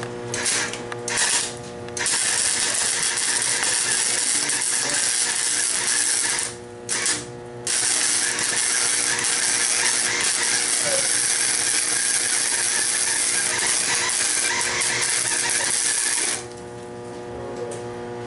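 Electric arc welding on steel, a steady frying crackle. It starts with a few short strikes, then runs as a long continuous bead with two brief breaks near the middle, and stops shortly before the end.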